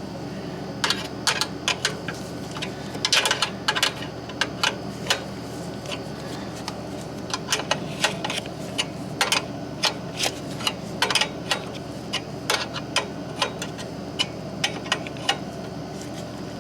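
Irregular sharp metallic clicks and taps, one to three a second and sometimes in quick clusters, from a wrench working on an oil burner's flare nut, over a steady low hum.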